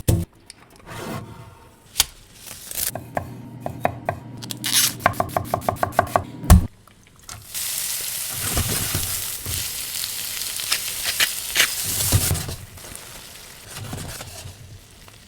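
A knife chopping rapidly on a cutting board, ending in one loud thump. Then food sizzling steadily in a hot pan for about five seconds before dying down.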